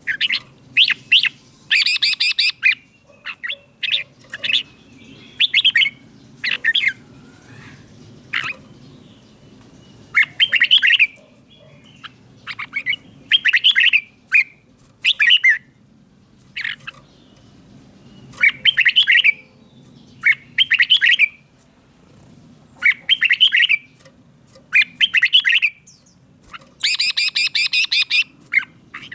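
Red-whiskered bulbul singing short, rich, warbled phrases, one every second or two. Twice, once near the start and once near the end, a harsher rapid chatter breaks in. A faint steady low hum runs beneath.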